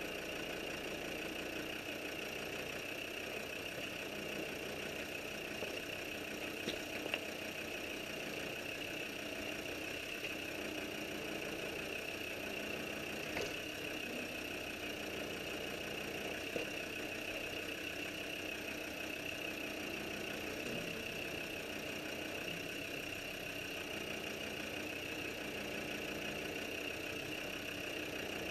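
Land Rover Defender engine idling steadily as the vehicle creeps along a rocky lane, with a few faint clicks and knocks.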